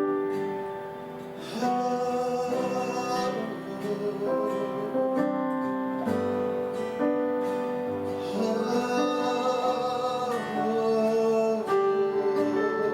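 Acoustic guitar strumming chords under a singing voice holding long notes of a worship song.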